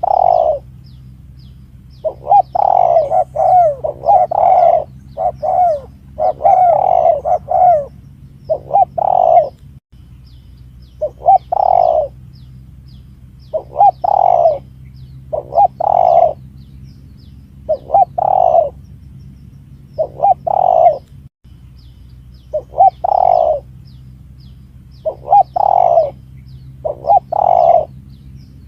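Spotted dove (tekukur) cooing in repeated short phrases, one every second or two, over a steady low hum. This is a recorded call played as a lure to draw wild spotted doves in.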